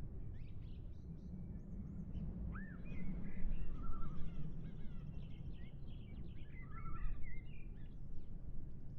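Several small birds chirping and whistling, busiest in the middle stretch, over a steady low rumble of background noise.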